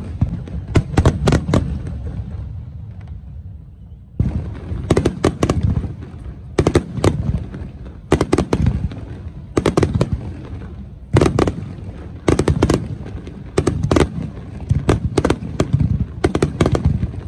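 Aerial fireworks shells bursting in rapid volleys of sharp bangs over a continuous low rumble. There is a brief lull about two seconds in, then the barrage picks up again.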